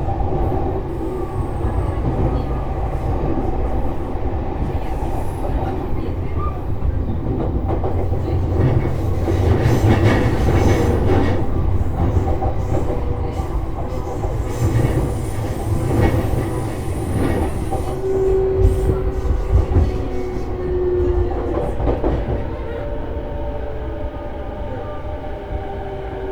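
Running sound inside a JR East E233-series electric train: a steady low rumble of wheels on rail with rail-joint clicks and the hum of the traction motors. In the second half a few motor tones glide down in pitch and the sound eases off toward the end.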